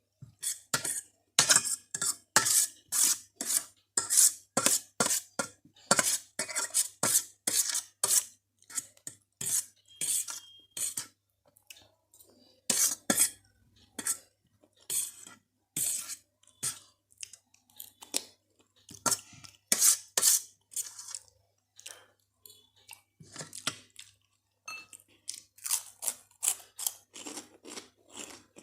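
Close-miked eating of spicy Maggi instant noodles with crunchy Kurkure snacks: a rapid run of sharp, crisp clicks and crunches, several a second, with brief pauses about 12 and 22 seconds in.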